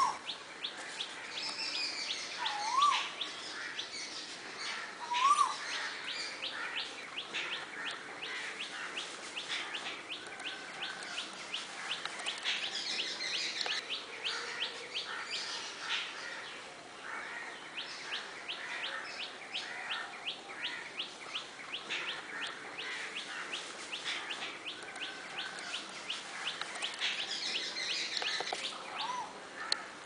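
Birds calling: a few loud, short whistled notes that rise and fall, three in the first six seconds and a fainter one near the end, over a steady fast ticking chatter and higher twittering from other small birds.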